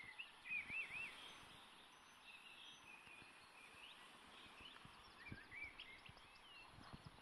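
Songbirds singing faintly over a quiet, even background hiss: a quick run of several arching notes about half a second in, then scattered chirps and high twitters later on.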